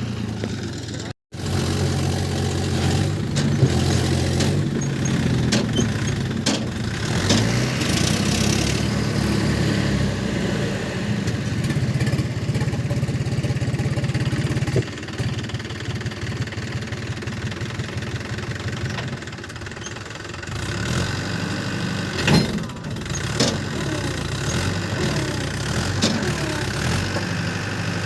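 Diesel tractor engines running steadily. The sound drops out briefly about a second in and changes abruptly about halfway through.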